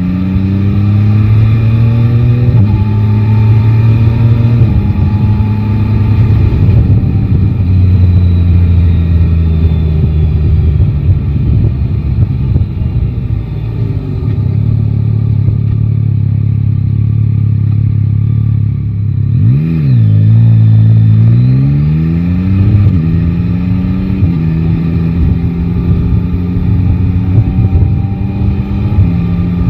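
Yamaha Tracer 9 GT's three-cylinder engine accelerating up through the gears, each upshift dropping the pitch. It then settles into steady running, dips briefly about two-thirds of the way through and pulls away again, with wind rush throughout.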